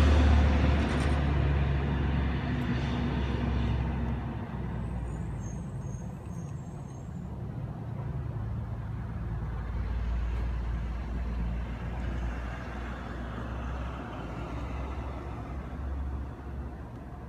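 Thunder rolling after a nearby lightning strike: a deep low rumble that fades slowly and swells once more about eight to ten seconds in before dying away.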